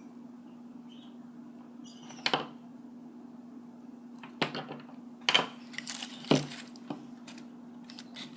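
Beads and shells clicking and knocking together as they are handled and threaded onto a string: about six sharp clicks spread unevenly over several seconds.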